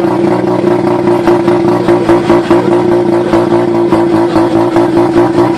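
Mazda RX-7 FD3S's twin-turbo 13B rotary engine running loud through a deleted exhaust, held at steady revs with a choppy, uneven pulse in its note.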